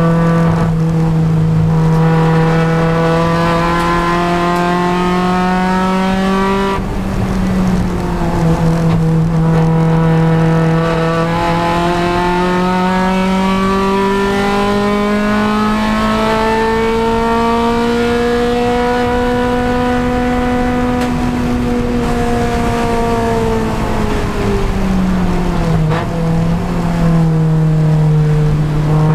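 Honda Civic Si race car's four-cylinder engine running hard on track, a single engine note with strong harmonics. It holds steady, breaks briefly about seven seconds in, then climbs slowly in pitch, drops away around twenty-five seconds and rises again near the end.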